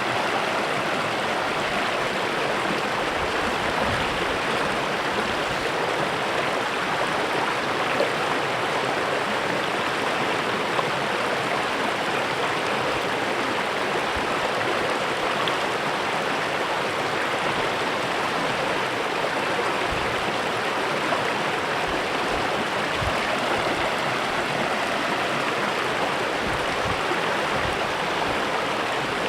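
Small creek flowing over stones: a steady, even rush and babble of running water.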